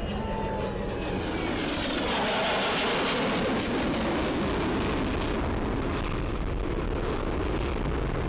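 F-35C's Pratt & Whitney F135 jet engine passing overhead: a high whine falls in pitch during the first second or so, then a loud roar builds to its peak two to three seconds in and holds to the end.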